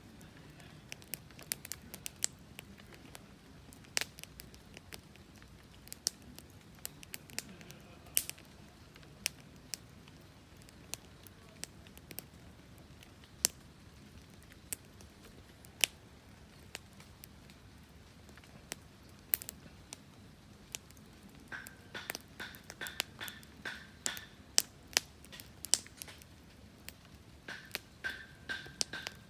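Wood fire crackling, with sharp irregular pops and snaps over a low hiss. From about two-thirds of the way through, a series of short high chirps joins in.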